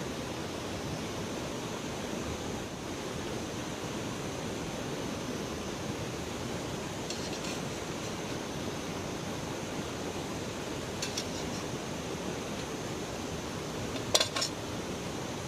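Steady rush of flowing river water, with three brief clusters of light clinks, the loudest near the end.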